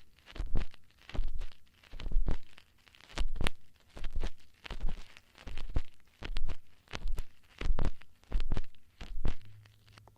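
Ear-cleaning ASMR tool scraping and rubbing right at the microphone: a steady rhythm of scratchy strokes, each with a low thump, roughly three every two seconds, stopping shortly before the end.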